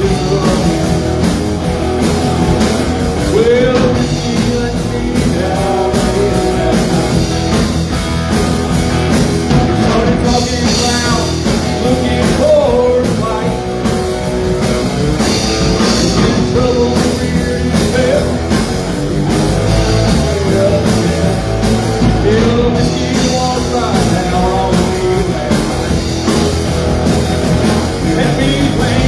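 Live rock-and-roll band playing amplified music with guitar, loud and unbroken.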